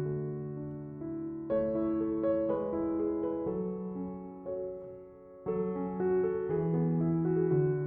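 Soft background piano music, slow chords that sustain and fade, with new chords struck about one and a half seconds in and again near five and a half seconds.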